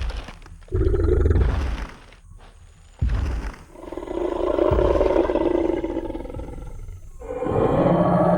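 Designed Tyrannosaurus rex sound effect: heavy stomping thuds near the start and about three seconds in, then a long, deep roar, with a second roar starting near the end.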